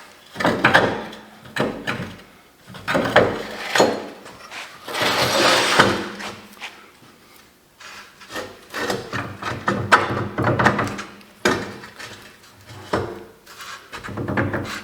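Metal parts of a trailer's landing gear leg clunking, knocking and scraping as they are worked into line by hand, with a longer scraping rub about five seconds in.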